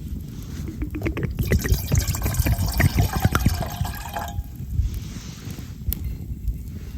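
Liquid being poured into a container, starting about a second in and stopping after about three seconds.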